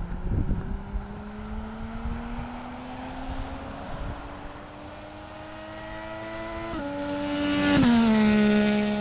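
Triumph Daytona 675's three-cylinder engine with a Jardine slip-on exhaust, revving up steadily as the bike approaches. It is loudest about eight seconds in, and the pitch drops sharply as it passes by.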